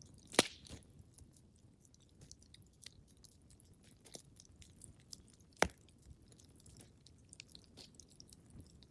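Wood fire crackling: faint, irregular small ticks, with two sharp louder pops, one about half a second in and one a little past the middle.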